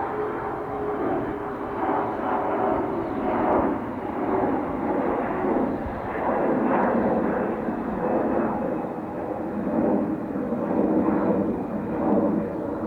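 Jet airliner's engines running at high power as the aircraft passes: a continuous rushing rumble that swells and fades, with a faint high whine slowly falling in pitch.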